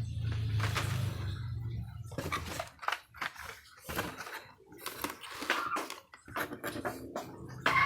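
Blister-carded Hot Wheels die-cast cars being handled out of their case: an irregular string of clicks, clatters and plastic-and-card rustles, with a low hum during the first two seconds.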